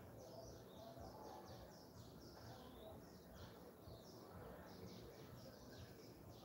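Faint birds chirping outdoors, many short high notes one after another, over a low steady background rumble.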